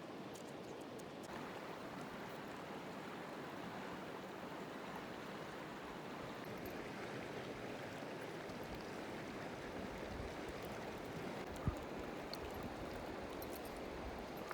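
Steady rush of flowing water from a stream or river, with a single dull thump about twelve seconds in.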